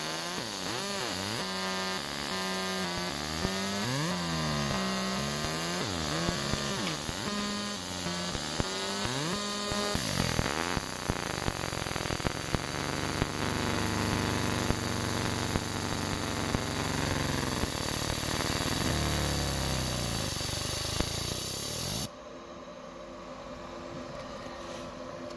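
Laser marking machine running: a steady machine whine and hum whose tones shift and bend as it marks. The sound drops suddenly to a much quieter hum near the end.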